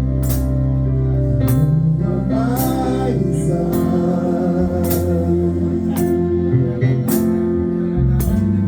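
Live gospel worship music: a band holding chords over a steady bass and a drum beat about once a second, with a singer's voice wavering above it for a few seconds near the middle.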